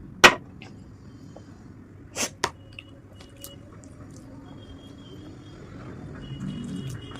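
Eating sounds from a meal of rice, dal and mashed potato: a sharp click just after the start and two more a little past two seconds in, with faint handling of food between.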